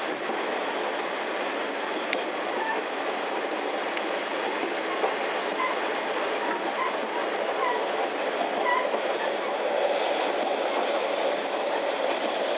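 Running noise inside a KiHa 40-series diesel railcar under way: a steady rumble of wheels on rail and the moving carriage. It gets a little louder from about nine or ten seconds in.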